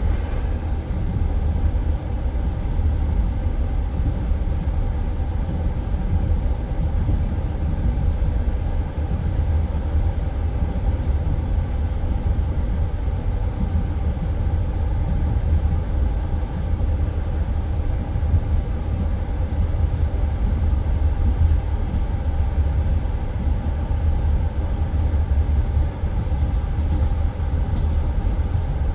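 Passenger train coach running along the line between stations: a steady low rumble of the wheels on the rails, heard from inside the carriage.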